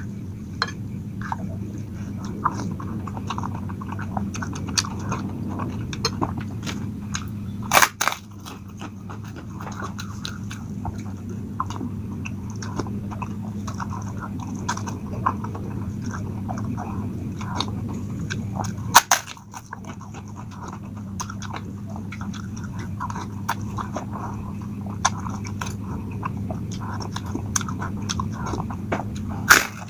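A person chewing instant noodles close to the microphone, with frequent small clicks of the spoon and fork against a glass bowl. Two louder knocks come about a quarter and two-thirds of the way through, over a steady low hum.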